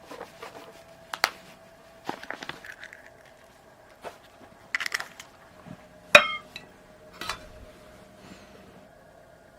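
Scattered clinks and light knocks of dishes or utensils being handled, the loudest a sharp ringing clink about six seconds in, over a faint steady hum.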